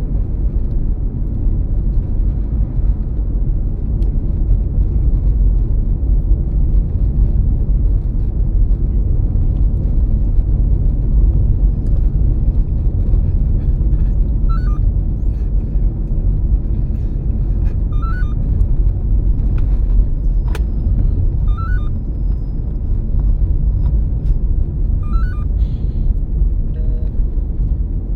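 Steady low road rumble inside the cabin of a moving 2007 Toyota Prius. In the second half a faint short chirp recurs four times, a few seconds apart.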